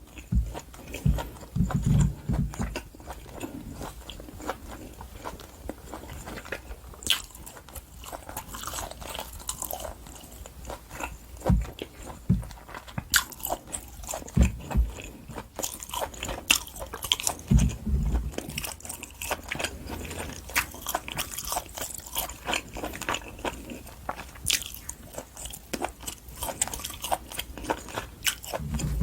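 Close-miked chewing and biting of wagyu top blade steak, with many small wet mouth clicks and a few deeper thumps.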